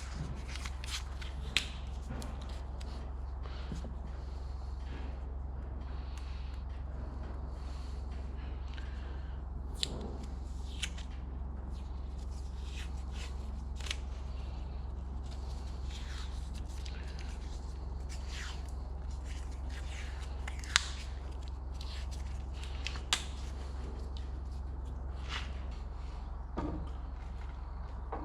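Scattered clicks, taps and short scrapes of hand work on new hydraulic hoses and duct tape, over a steady low hum.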